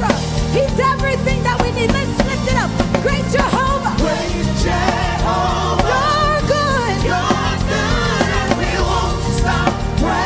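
Live gospel praise and worship music: singers holding wavering lines over a band with bass and a steady drum beat.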